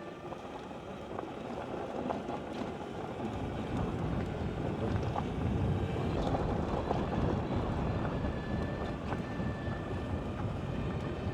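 Wind rushing over the microphone and road noise from a moving Energica Experia electric motorcycle, growing louder over the first few seconds and then holding steady.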